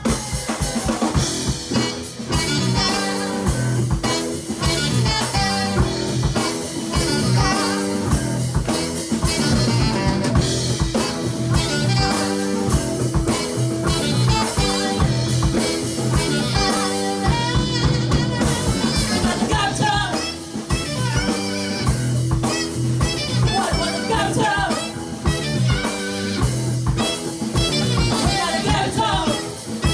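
A live band playing: a drum kit keeps a steady beat under bass and other instruments, with a melody line over it.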